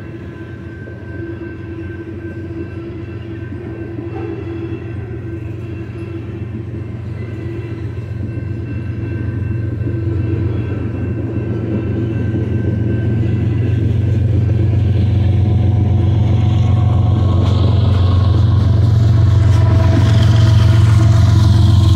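Freight train cars rolling past with a steady low rumble that swells steadily louder as the rear distributed-power locomotive, a GE ES44C4 with its GEVO V12 diesel running, comes up and passes near the end.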